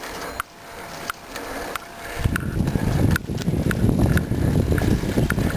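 Wind buffeting the microphone of a camera on a moving bicycle, turning into a loud low rumble about two seconds in. A light tick sounds about every two-thirds of a second throughout.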